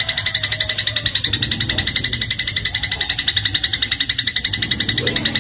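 Eurasian tree sparrow (burung gereja) giving a long, rapid chattering trill, about eleven high notes a second.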